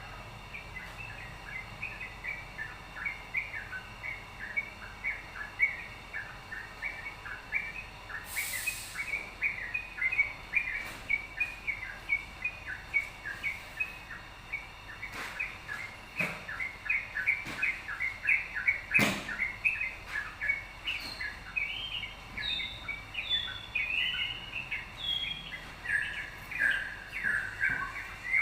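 Yellow-vented bulbul singing actively: a steady stream of short, quick chirping notes, with higher notes sliding downward near the end. A brief hiss and a few sharp clicks break in along the way.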